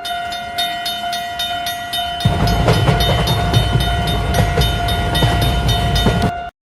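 Railroad crossing bell clanging about three times a second under a long, steady horn tone, with a train's low rumble coming in about two seconds in; everything cuts off suddenly near the end.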